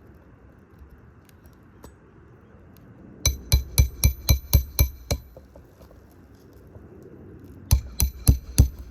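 Hammer striking metal with a ringing clink during shingle roof repair: a run of about eight blows at about four a second, then a pause and four more quick blows near the end.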